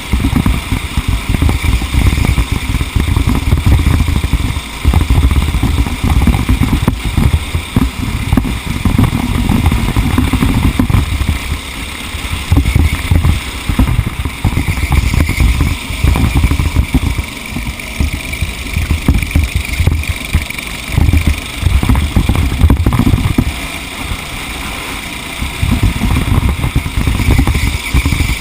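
A motor vehicle engine running loud throughout, its level rising and falling, with short dips a few times.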